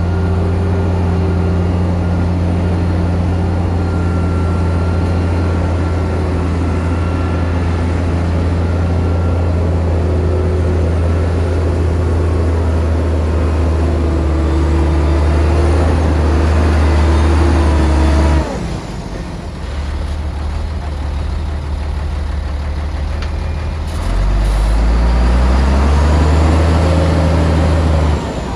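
Shantui bulldozer's diesel engine running hard with a steady low note. About two-thirds of the way through it drops to a lower, quieter note, then revs back up a few seconds later and runs hard again, dipping briefly near the end.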